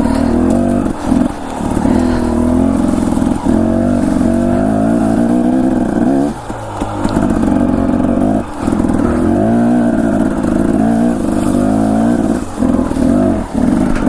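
Dirt bike engine revving up and down as it is ridden at low speed over rough, uneven ground, with the throttle chopped off and back on several times in the second half.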